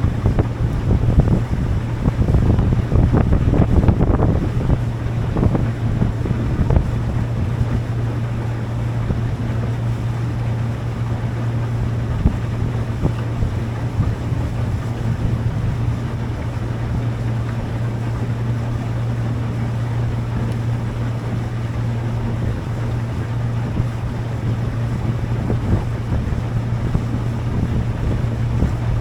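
Boat engine running steadily with a constant low hum, with wind buffeting the microphone, gustiest in the first several seconds.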